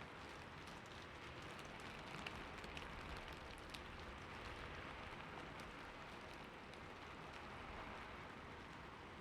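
Soft, steady rain falling on hard city surfaces: an even hiss with scattered ticks of individual drops, a few of them louder about two to four seconds in.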